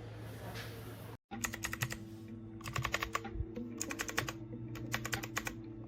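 Typing on a Dierya T68SE 60% mechanical keyboard with clicky blue switches, in four quick runs of keystrokes. A steady hum comes before them and stops abruptly about a second in.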